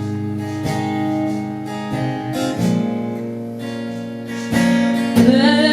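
Acoustic guitar strumming chords between sung lines of a live country ballad, the strokes about one a second.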